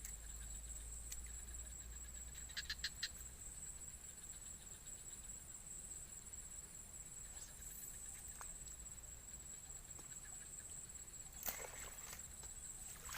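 Faint outdoor ambience dominated by a steady high-pitched insect drone, with a quick run of four ticks about two and a half seconds in and a sharp click near the end.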